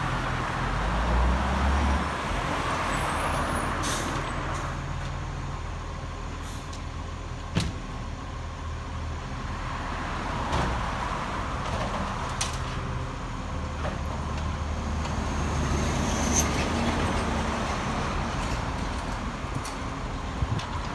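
Garbage truck engine running steadily, louder for a moment about a second in and again in the second half, with a few sharp knocks scattered through.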